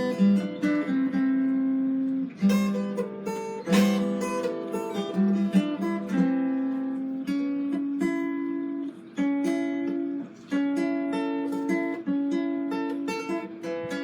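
A plucked string instrument played live: a slow melody of picked notes with occasional strummed chords.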